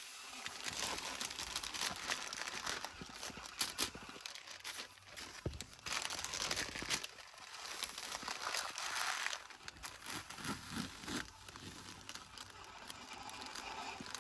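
Trash crinkling and rustling as it is picked through and crumpled by hand, with scattered crackles and clicks.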